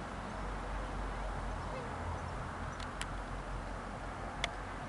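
Low, steady rumble of an LNER Azuma train running away along the line, with a few sharp clicks: two close together about three seconds in and one near the end.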